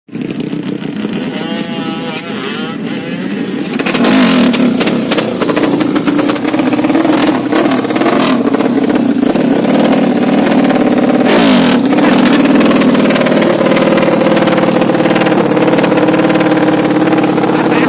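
A 200cc motorcycle engine running at a steady, even pitch. It gets louder about four seconds in.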